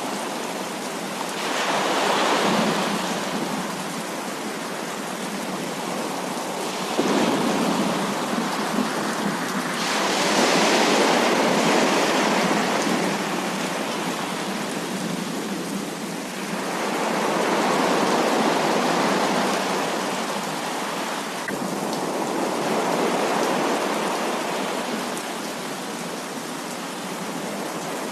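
Heavy rain pouring steadily, with several rolls of thunder that swell and fade over it, one breaking in sharply about seven seconds in.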